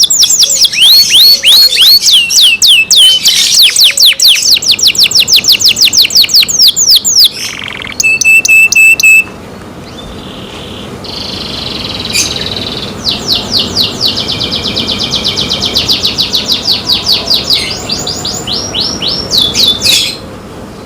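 Canary singing in fast rolls of repeated, rapidly falling high notes. The song breaks off about halfway through and then resumes with another long roll.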